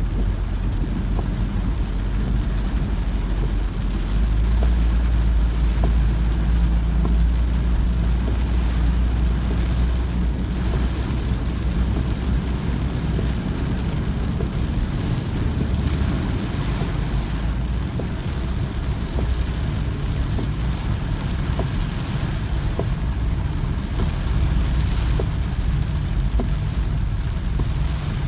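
A car driving on rain-soaked, flooded roads: a steady low rumble of engine and tyres, with a haze of rain and water noise.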